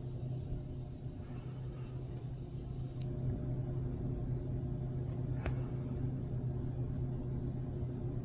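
A steady low mechanical hum with a few level tones, like an idling engine, with a brief sharp tick about five and a half seconds in.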